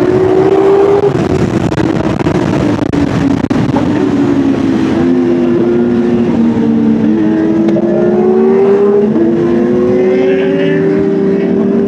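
Inline-four Kawasaki sport motorcycle engine accelerating hard through the gears: the pitch climbs, drops sharply at each upshift, and climbs again several times, over steady wind rush.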